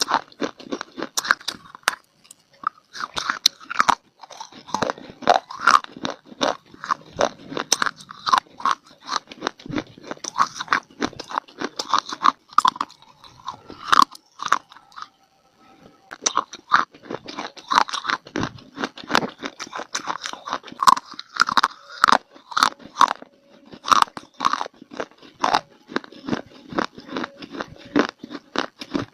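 Close-up chewing and crunching of dry clay (mitti): rapid, irregular sharp crunches several times a second, with a brief pause about halfway through.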